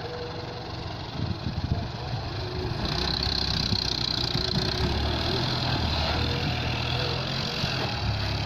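Dump truck's diesel engine running, getting louder about three seconds in.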